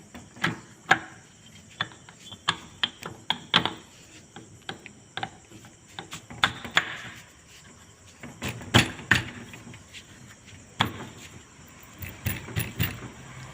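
Metal tools and parts clinking and knocking: a long run of irregular sharp clicks and knocks, the loudest about 9 seconds in.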